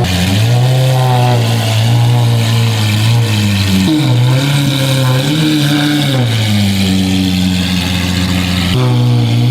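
Lamborghini Aventador SVJ's V12 running near idle through a Valvetronic valved sport exhaust. Its pitch shifts up and down a little a few times, with a drop about four seconds in and again near the end.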